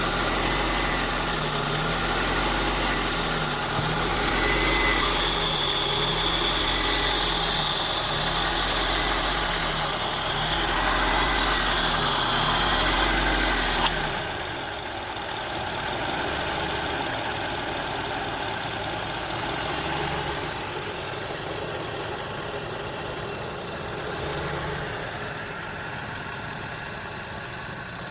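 2002 Honda CR-V's 2.4-litre four-cylinder engine idling, its pitch wavering up and down about once a second. About halfway through there is a click and the low rumble drops, and the idle carries on more quietly.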